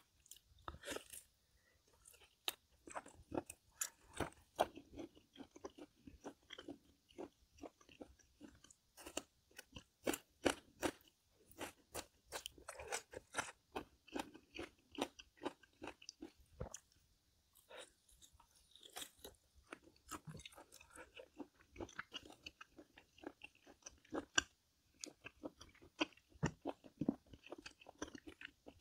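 A person eating close to the microphone: chewing with frequent short, crisp crunches and wet mouth clicks at an irregular pace.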